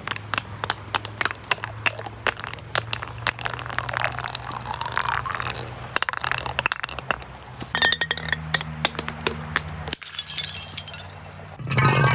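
Glass bottles being broken: a dense run of sharp cracks and clinks of breaking glass over a steady low hum, with a louder burst of shattering near the end.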